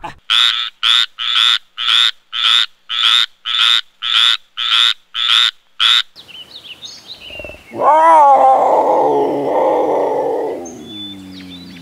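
Farm animal calls: a run of about a dozen short, evenly spaced calls, roughly two a second, then after a short pause a single loud, long call that drops in pitch and fades near the end.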